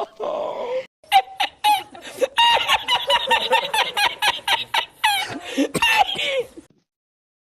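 Laughter in rapid, repeated bursts, about four a second, cutting off abruptly near the end.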